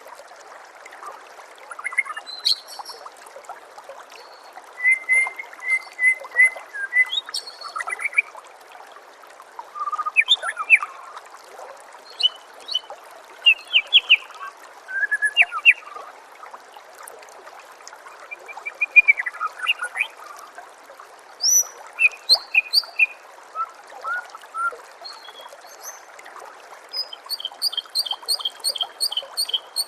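Songbird song in short, varied whistled phrases and chirps, separated by pauses, over a steady trickle of water. Near the end comes a fast run of high repeated notes.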